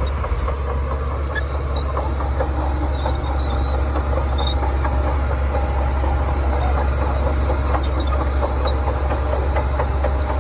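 Shantui DH17C2 bulldozer's diesel engine running steadily, a deep even drone with no change in load.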